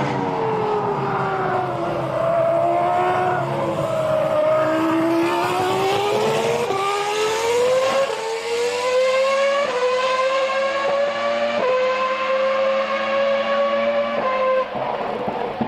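Ferrari Formula 1 car engine at high revs. Its pitch sags, then climbs steadily through several quick upshifts, each a sudden small drop in pitch, before the sound falls away abruptly near the end.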